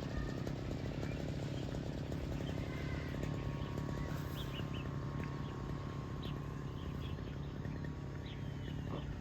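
Outdoor ambience: a steady low hum and rumble, with faint short bird chirps coming in from the middle of the stretch onward.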